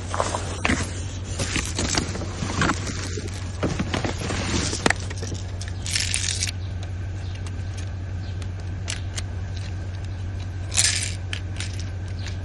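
Rummaging through discarded items: a run of rustles, clatters and knocks, then two louder rustling rushes about six and eleven seconds in, over a steady low hum.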